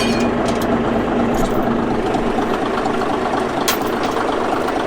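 Heavy diesel engine idling steadily, with a single light click near the end.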